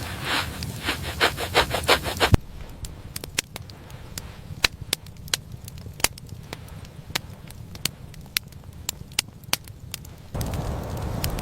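Rhythmic crunching scrapes, about four or five a second, for the first two seconds. Then the sound drops suddenly to a quieter bed of scattered sharp crackles and pops from a wood fire, and a louder rustling noise returns near the end.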